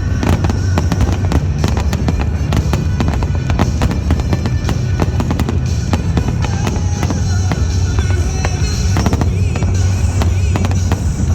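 Fireworks display: a dense, irregular run of bangs and crackles over loud accompanying music with a heavy bass.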